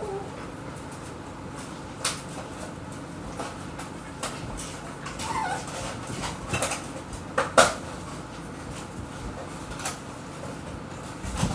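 A dog whimpering briefly in a few short whines, among scattered knocks and clicks of handling things in a kitchen, the loudest a sharp double knock about seven and a half seconds in.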